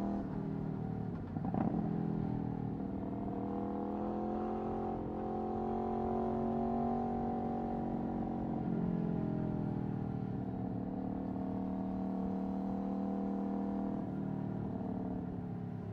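Aprilia Tuono V4 1100's 65-degree V4 engine, through an Akrapovic Racing exhaust, running under way on the road. There is a brief break in the note about a second and a half in, then the engine speed rises and falls gently.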